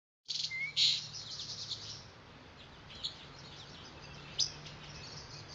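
Small birds chirping and tweeting in quick, short calls, the loudest in the first second, over a faint steady low hum.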